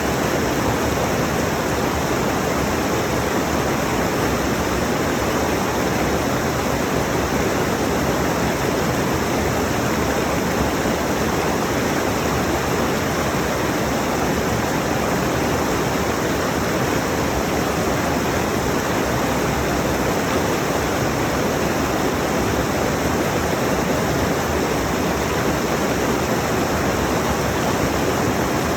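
Rushing mountain stream: a steady, even rush of water over rocks.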